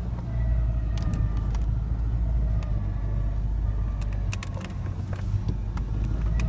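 Small pickup truck driving, heard from inside the cab: steady engine and road rumble, with scattered light clicks and rattles.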